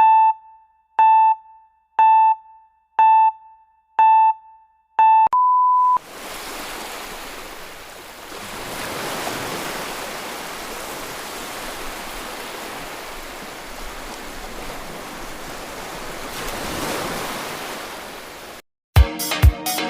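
Countdown beeps: six short beeps a second apart, then one longer, slightly higher beep. Then ocean waves wash steadily, swelling and easing, until they cut off and music with a beat starts near the end.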